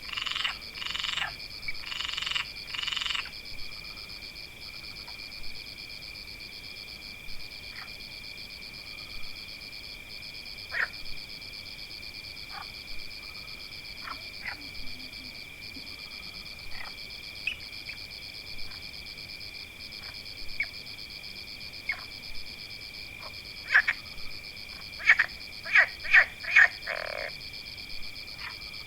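Frog chorus in a forest: a steady high-pitched trilling, with short croaking calls scattered across it, bunched at the start and in a louder, quicker run near the end.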